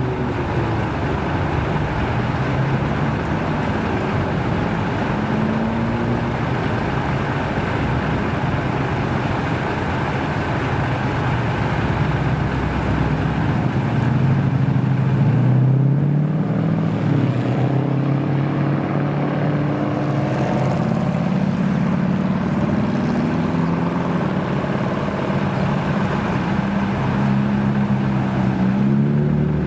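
American muscle car engine running with a deep, steady rumble. The pitch rises about halfway through and again near the end.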